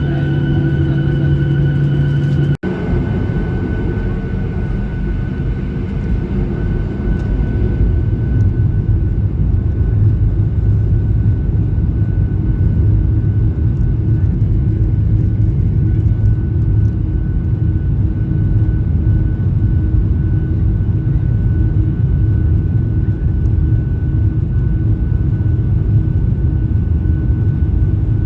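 Cabin noise inside a Boeing 737-800 from its CFM56-7B jet engines: a steady hum with a faint whine. A brief dropout comes about two and a half seconds in, then a heavier rumble builds and holds from about eight seconds on.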